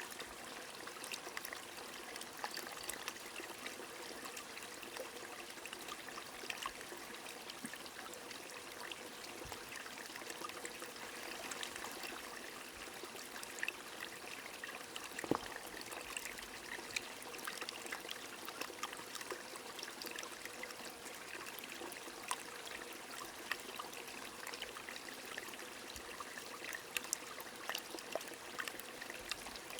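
A small stream trickling steadily under gentle rain: an even wash of running water dotted with small drop ticks. One sharper tick comes about halfway through.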